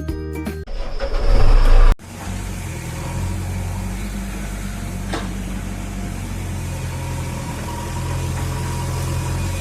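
Background music ends under a second in, followed by a loud swell of noise that cuts off abruptly at about two seconds. After that a tractor engine runs steadily with a low hum.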